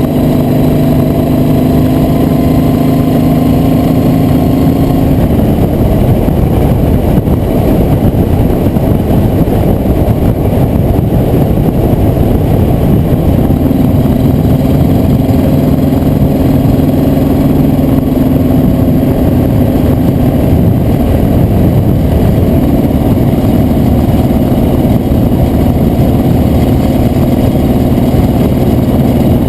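A vehicle engine running at a steady pace while under way. Its note comes and goes under a loud rushing noise: clear for the first five seconds, fading out, then back from about fourteen seconds in.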